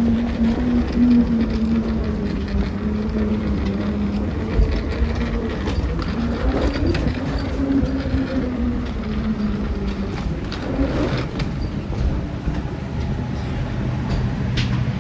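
Interior of a moving vehicle: a steady low rumble with a motor hum that falls and then rises again in pitch, plus a few light clicks or knocks.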